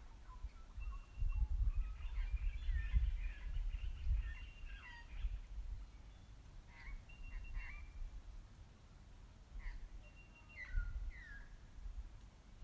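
Wild birds calling, with short chirps and quick sweeping notes from several birds, busiest in the first half and again near the end. An uneven low rumble runs underneath.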